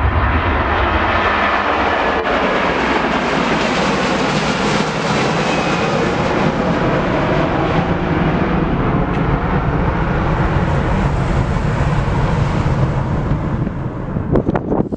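Jet airliner's engines passing close, a loud steady jet noise with a faint whine, easing off near the end as wind buffets the microphone.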